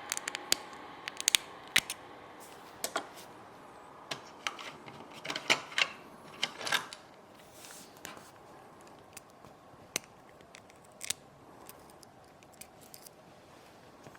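Small hand tools clicking and tapping against a 6th-generation iPod nano as it is taken apart: many short, sharp clicks, dense in the first half and sparser later.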